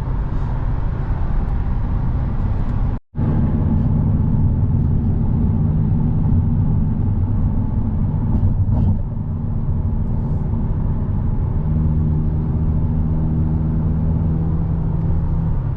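Car driving, heard from inside: a steady low hum of engine and road noise. It drops out abruptly for a moment about three seconds in.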